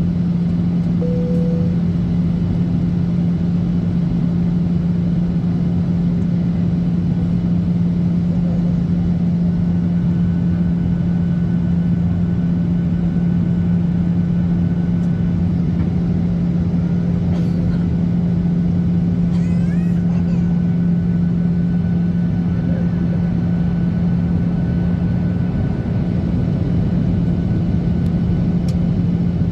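Steady cabin drone inside a Boeing 737-800 in flight: the CFM56 engines' hum and airflow noise, a constant low tone over a rushing hiss.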